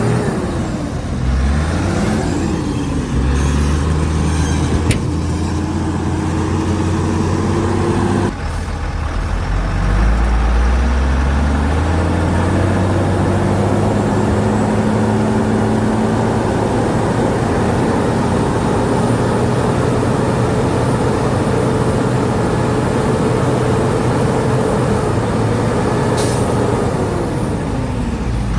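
Heavy diesel earthmoving machinery, a bulldozer with dump trucks, running loud and steady, the engine pitch rising and falling as it works under load. The sound changes abruptly about eight seconds in, and there is a brief hiss near the end.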